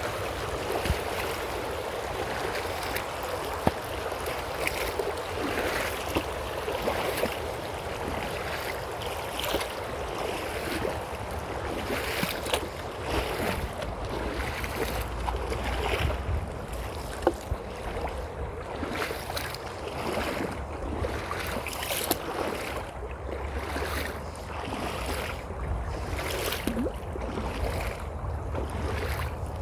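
Creek water running steadily, with wind rumbling on the microphone. In the second half, footsteps about once a second.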